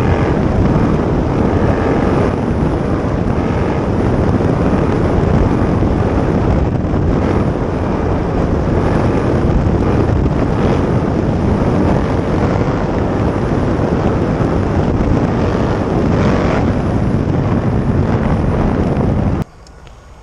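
Yamaha MT-07 motorcycle with a Black Widow exhaust, dB killer removed, running steadily under way, its exhaust note buried in a loud, even rush of noise. The sound cuts off abruptly near the end.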